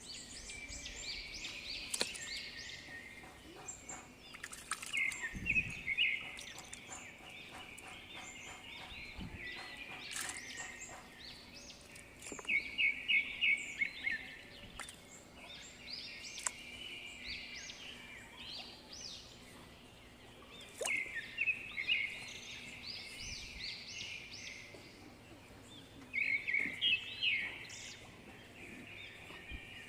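Birds calling in short bursts of quick, repeated chirping notes, recurring every few seconds over a faint steady background hum.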